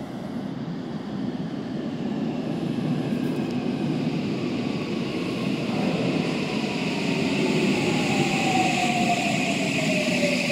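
Toei 5500 series electric train arriving in an underground station: the rumble of the train grows louder as it comes in. From about six seconds in, a whine falls steadily in pitch as the train slows.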